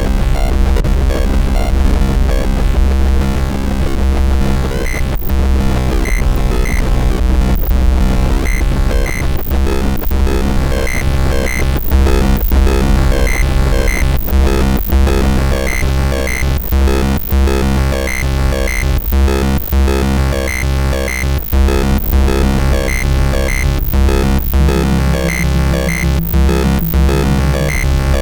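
Live electronic noise music: a heavy, steady low bass drone under dense layered tones, with clicks and short high blips pulsing in a repeating rhythm.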